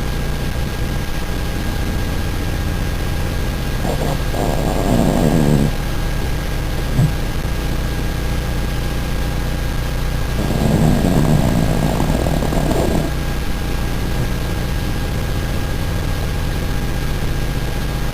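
A sleeping dog snoring: two snores of about two seconds each, one about four seconds in and one about ten seconds in, over a steady low hum.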